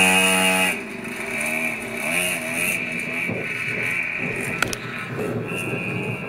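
Motocross bike engines revving: one close bike holds a loud, steady high note that drops away under a second in, then several bikes revving up and down. A single sharp click about four and a half seconds in.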